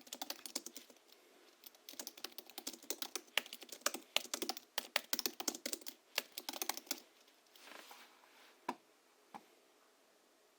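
Fast typing on a Hansung GHL-5X keyboard tuned with Krytox-lubricated springs and 50 g rubber domes: quick runs of keystrokes with a short pause about a second in. The typing stops about seven seconds in, followed by two single key knocks.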